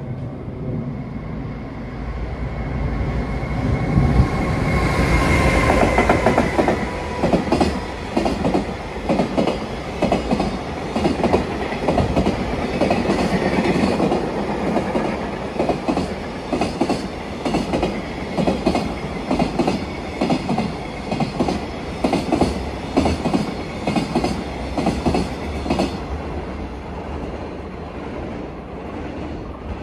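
JR Freight container train behind an EF510 electric locomotive passing close by. The locomotive goes by about four to six seconds in, with a swelling rush and a thin whine that dips slightly in pitch. Then the container wagons' wheels set up a long, even clickety-clack over the rail joints, which fades near the end.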